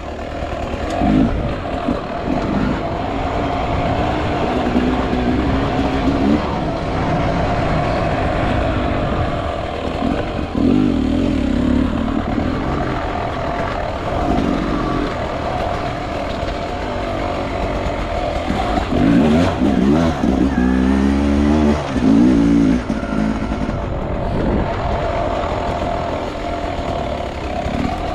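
Beta 300 RR two-stroke enduro motorcycle ridden off-road, its engine revving up and down over and over as the throttle is worked, with a stretch of quick rises and falls about two-thirds of the way through.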